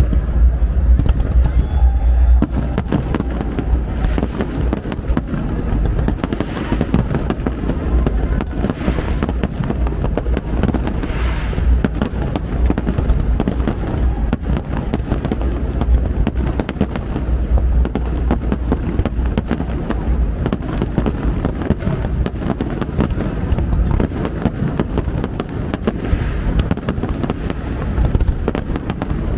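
Fireworks finale: a dense, unbroken barrage of booming shell bursts with rapid crackling over them.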